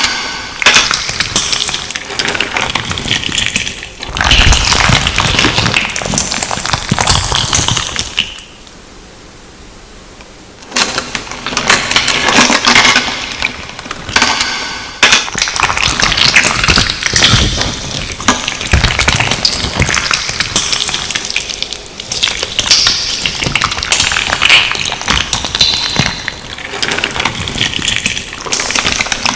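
Slime being squeezed and worked by hand, with dense wet crackling and popping under an added echo effect. It breaks off to near quiet for about two seconds about a third of the way in, then resumes.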